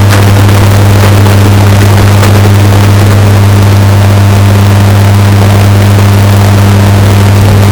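Washing machine running with a steady, deep motor hum, bass-boosted and distorted to near clipping, with a couple of faint clicks near the start.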